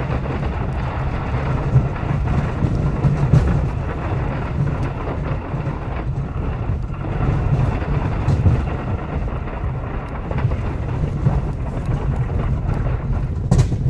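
Ford F-250's 6.7L Powerstroke V8 turbo-diesel running under load while pushing snow with the plow: a steady low rumble with a rough, uneven noise that swells and dips, and one sharp knock near the end.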